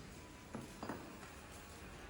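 Two faint, short knocks a third of a second apart over a low workshop background.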